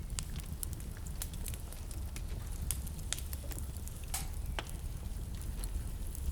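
Wood fire crackling in a fireplace: frequent sharp pops and snaps at irregular intervals over a steady low rumble of the burning fire.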